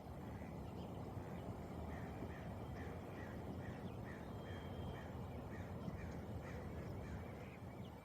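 A bird at the lake calls over and over, short calls about three a second, from about two seconds in until near the end, over a steady low rumble that comes in suddenly at the start.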